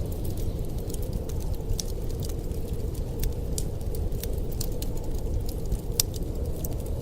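Wood fire crackling with irregular sharp pops, the loudest about six seconds in, over a steady low rumble of snowstorm wind.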